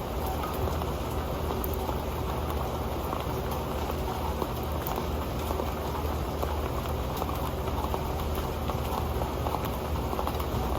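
Rain falling steadily on an old pan, a dense, even patter of many small drop taps.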